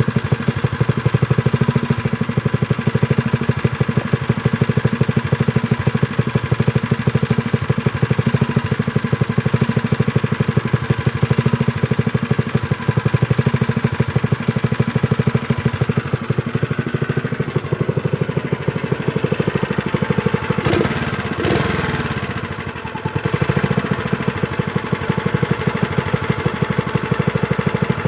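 Honda GX120 single-cylinder four-stroke engine on a minibike running steadily, its note dipping briefly about four-fifths of the way through. It has a really loud tick, which the owner suspects may even be a rod knock.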